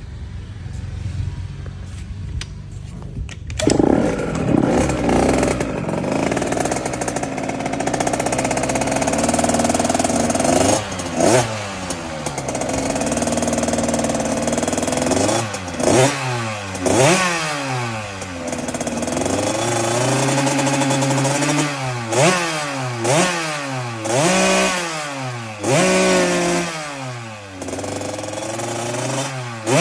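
Husqvarna TC50's small two-stroke single-cylinder engine catching about four seconds in, running at a steady idle, then revved again and again in quick blips, the pitch climbing and falling back with each one.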